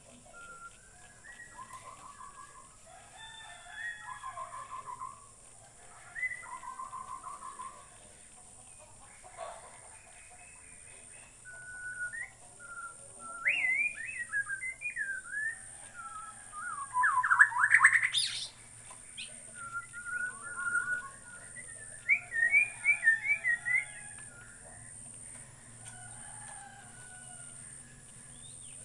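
White-rumped shama (murai batu, Bornean form) singing a long, varied song of clear whistled phrases, pitch glides and quick trills, with a loud rapid rattling phrase a little past the middle. A steady high-pitched hum runs underneath.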